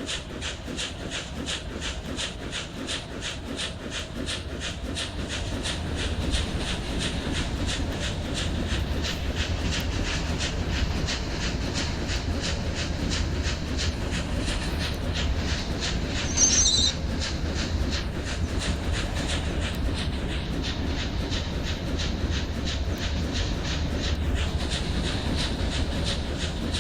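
Passenger train running on the track: a steady clickety-clack of wheels over rail joints, about two to three clicks a second, over a low rumble. A brief high-pitched squeal about two-thirds of the way through.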